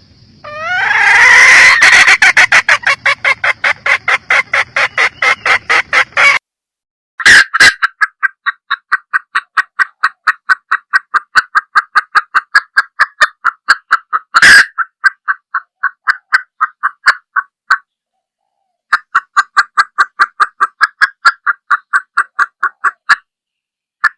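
Hen junglefowl clucking in rapid runs of short calls, about four a second, broken by short pauses, with a few louder single calls standing out.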